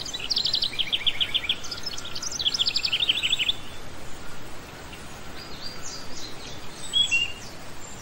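Small birds chirping: two quick runs of repeated high chirps, about eight a second, in the first few seconds, then scattered fainter calls, over a steady background hiss.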